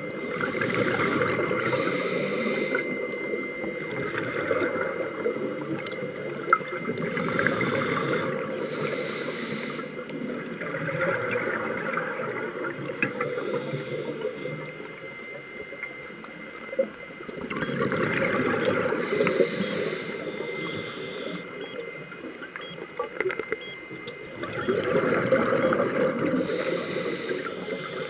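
Scuba diver's breathing heard underwater: exhaled bubbles from the regulator gurgle out in swells about every six to seven seconds, with quieter inhalation gaps between. A faint steady high tone sits under it.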